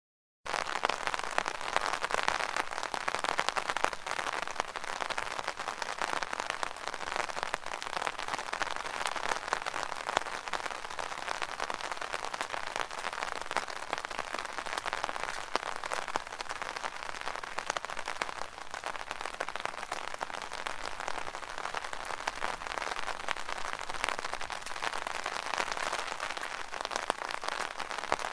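Steady rain drumming on an open umbrella, a dense patter of countless drops. The sound cuts out for a moment at the very start.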